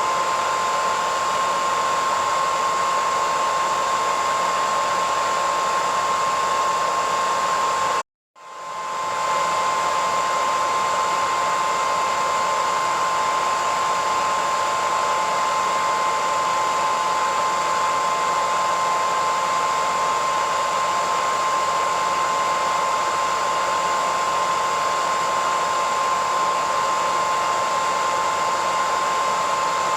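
Hair dryer running steadily: a continuous airy rush with a steady whine in it. About eight seconds in it cuts out to silence for a split second, then swells back up within about a second.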